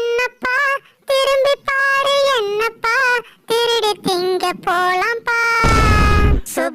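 High-pitched singing voice, like a child's, singing a melody in short held phrases. Near the end comes a loud, rough noisy burst lasting under a second.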